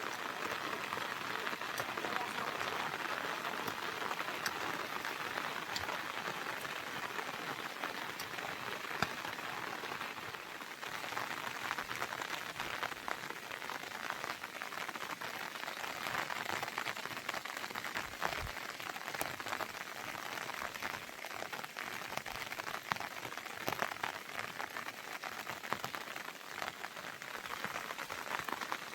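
Heavy monsoon rain falling steadily, a dense even hiss with countless individual drops ticking on surfaces.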